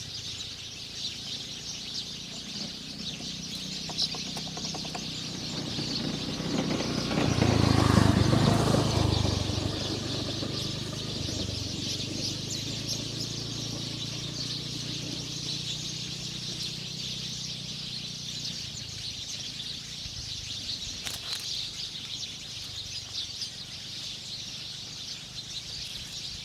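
Outdoor bird sounds: many small chirps over a steady high hiss, with a louder, lower swell about seven to nine seconds in that fades slowly.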